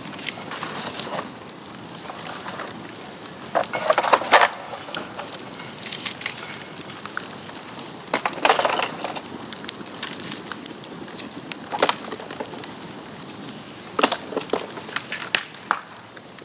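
Burning bamboo crackling steadily, with irregular sharp cracks and pops that come in clusters several times.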